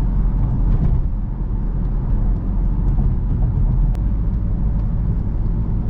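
BMW car engine and road noise running steadily while driving, a low even rumble.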